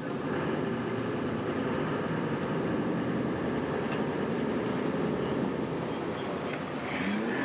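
A steady engine drone that holds at an even level.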